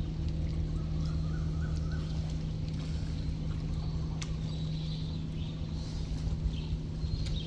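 Boat engine running with a steady low drone. A few faint bird chirps come in about a second in.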